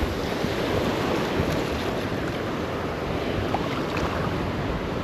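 Steady wash of Gulf surf on the beach, with wind on the microphone.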